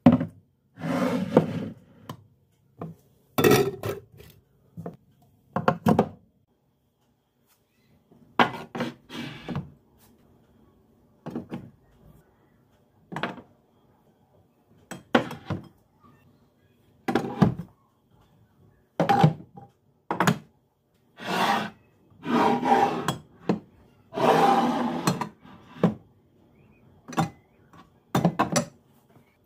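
Kitchen items being handled: irregular knocks and clatters of dishes and containers being set down and moved, with several longer rubbing sounds of about a second each.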